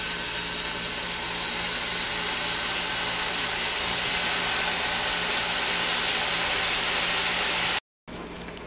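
Marinated chicken pieces sizzling on a hot, butter-brushed grill pan, the sizzle building as more pieces go in and then holding steady. It cuts out suddenly near the end and comes back quieter.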